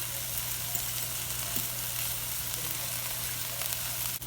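Chopped green onions sizzling steadily in melted butter in a frying pan as they cook down.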